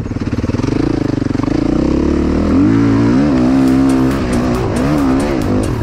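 KTM enduro motorcycle engine running under load as the bike sets off and climbs, its pitch dipping and rising several times with the throttle.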